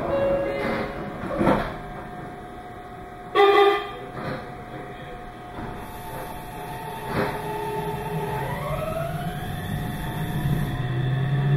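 Meitetsu 2200 series limited express train running, with a steady low rumble. About a third of the way in comes a short, loud pitched blast. From about two-thirds through, a whine rises in pitch and then levels off, as the traction motors pull the train up to speed.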